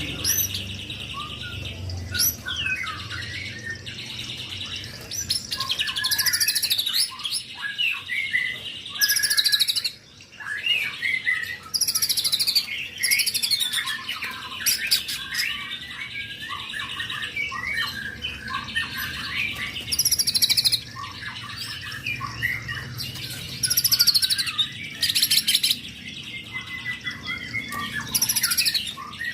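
White-rumped shama (murai batu) singing nonstop, a long varied song of loud whistles, sweeping glides and rapid trills, broken by a brief pause about ten seconds in.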